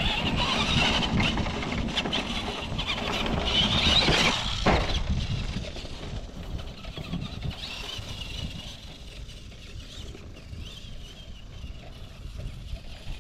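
RC monster truck's electric motor and gears whining as it drives through the woods, with tyres churning over the forest floor. It is loudest in the first few seconds, peaking about four seconds in, then runs quieter.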